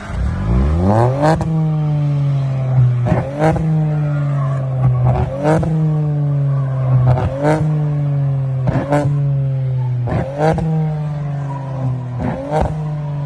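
VW Polo petrol engine revved up and held at high revs while an exhaust flamer kit fires sharp pops and bangs from the exhaust, often in pairs, about every two seconds.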